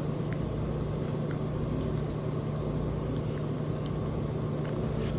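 Steady low room hum with a few faint, scattered clicks, an Indian ringneck parrot's beak nibbling at a shoe.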